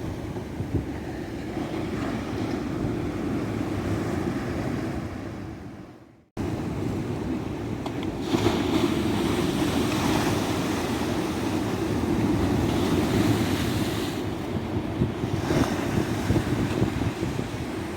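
Ocean surf washing steadily onto a beach. About six seconds in it fades away to silence and cuts back in abruptly, and it swells louder from about eight seconds in.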